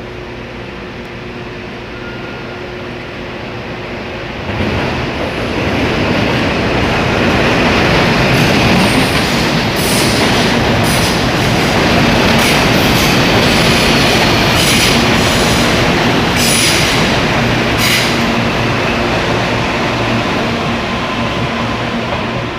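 Series 8500 electric train pulling into a station. Its running rumble jumps louder about four seconds in, then wheels on rail give a run of brief sharp squeals and clacks through the middle stretch.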